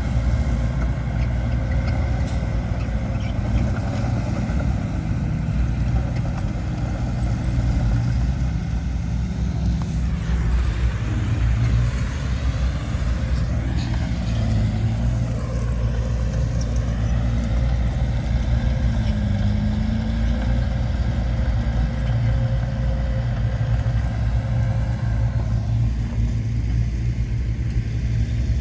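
Heavy earthmoving machinery, bulldozers and dump trucks, with their engines running steadily under work. A higher sound rises and falls in pitch for a few seconds about ten seconds in.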